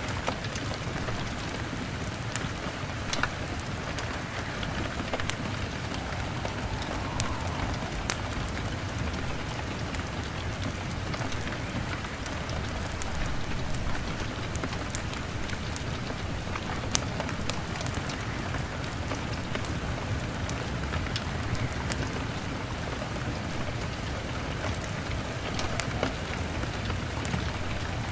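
Steady rain pattering on a window, with scattered sharp crackles and pops from a wood fire.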